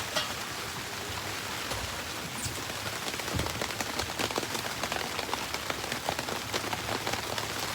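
Freezing rain falling steadily, with many small, irregular ticks of drops striking close by.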